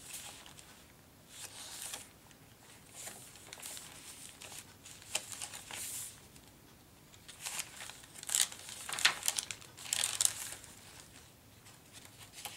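Paper rustling and crinkling as the pages, cards and tucked-in pieces of a handmade junk journal are turned and handled, in irregular rustles with small ticks, busier and louder in the second half.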